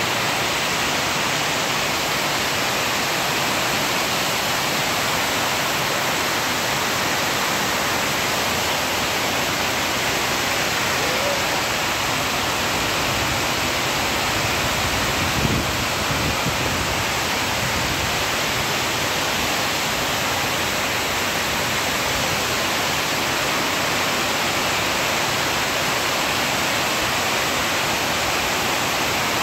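Heavy rain with hail pouring steadily onto a paved yard, a dense even hiss. A brief low thump about halfway through.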